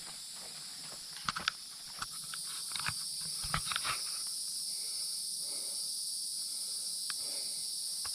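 Steady high-pitched buzzing of insects in the woods, with scattered clicks and rustles in the first half.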